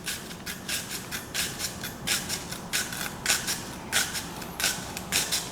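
Kitchen knife slicing an onion into thin slices on a cutting board: a steady run of short crisp cuts, about two to three a second.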